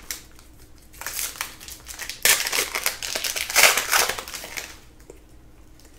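Crinkling and crumpling of a trading-card pack's foil wrapper, in dense crackly bursts from about a second in until shortly before the end, loudest in the middle.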